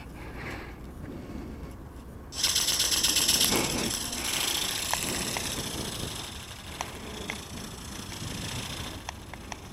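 Flapping-wing RC ornithopter's small motor and wing mechanism, a fast rattling buzz that starts suddenly a couple of seconds in, is loudest briefly, then fades as the aircraft moves away. A low wind rumble on the microphone underlies it.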